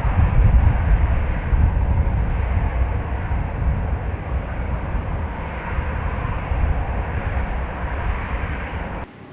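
Jet airliner's engines roaring with a deep rumble as it passes, slowly fading, then cutting off suddenly about nine seconds in.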